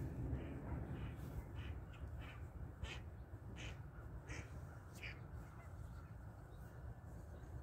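Birds calling outdoors: a string of short, separate calls at an irregular pace, over a steady low rumble.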